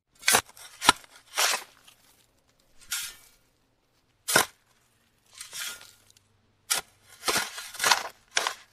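Small trowel digging into sand: about ten separate short scrapes and scoops, unevenly spaced with quiet gaps between, a few starting with a sharp tick.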